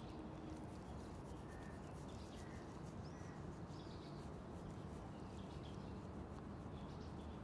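Quiet steady background noise with a few faint bird chirps.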